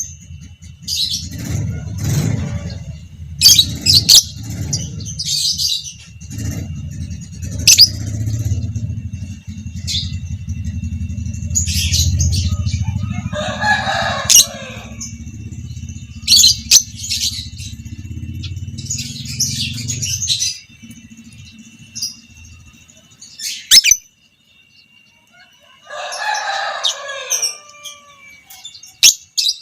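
Violet parblue creamino lovebird calling with sharp, high chirps, singly and in quick clusters, and two chattering trills of about a second and a half each, one about halfway and one near the end. A low rumble lies under the first two-thirds and stops suddenly.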